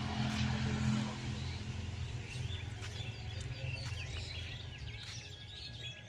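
Small birds chirping: a run of short high chirps and quick falling notes starting about two seconds in, over a steady low background rumble.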